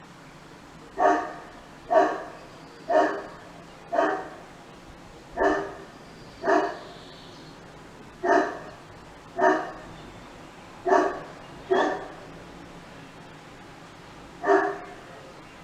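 A dog barking in single barks, about eleven in all, roughly one every second with a longer gap or two between them.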